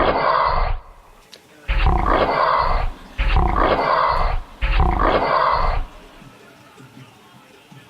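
An animal-roar sound effect played four times in a row, each copy the same roar of about a second that starts and stops abruptly, with short gaps between them.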